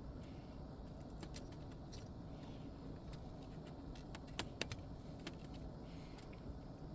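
A few light clicks and taps from small parts or tools being handled, with two sharper clicks close together about four and a half seconds in.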